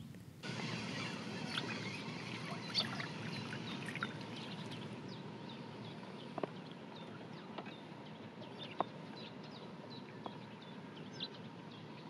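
Birds chirping, many short calls scattered throughout, over a steady low background hum, with a couple of sharp clicks around the middle.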